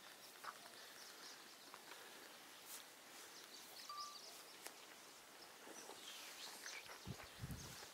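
Near-silent open-air ambience with faint, scattered bird chirps, and a few low thumps near the end.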